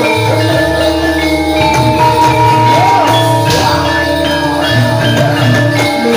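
Javanese gamelan music accompanying a jathilan horse dance: metallophones ringing steady, sustained notes over low tones.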